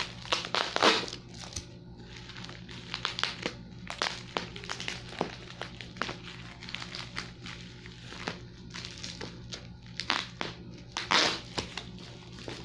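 Tight plastic packaging being pulled and worked loose by hand, crinkling and crackling irregularly, with louder bursts of crackle near the start and about eleven seconds in.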